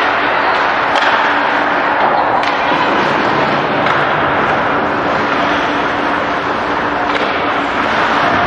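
Ice hockey play: skates scraping and hissing on the ice, with a few sharp clacks of sticks or puck, over a steady low hum.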